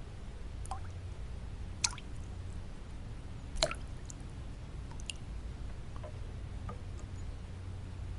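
Water drops falling one at a time in an uneven rhythm, roughly one plink a second, some with a short glide in pitch, over a steady low white-noise hum.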